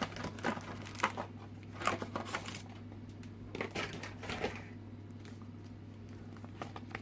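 Packaging being handled as a lantern's box is unpacked: rustling and crinkling with light clicks and knocks, busier in the first half and sparser after, over a steady low hum.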